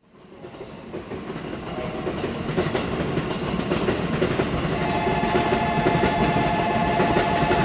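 N700S Shinkansen train approaching along the track, its rumble growing steadily louder. A steady whine joins about five seconds in.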